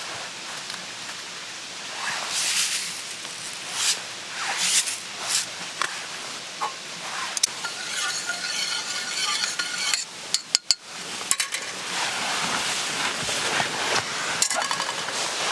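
Metal cookware and utensils clinking, knocking and scraping over a steady sizzling hiss of food cooking. A short ringing scrape comes about halfway through, followed by a few sharp clicks.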